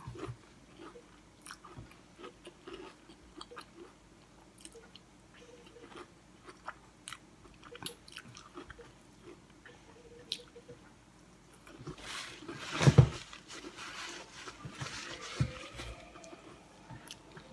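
Close-up chewing and crunching of a crispy, deep-fried breaded sausage roll with a mashed potato and cheese filling: scattered small crunches, then a louder burst about two-thirds of the way through.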